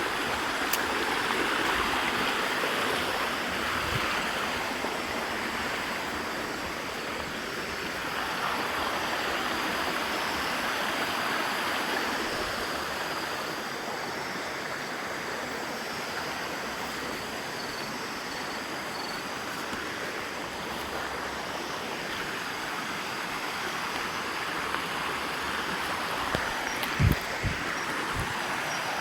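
Steady rushing of flowing water, swelling and easing every several seconds, with a few short low thumps near the end.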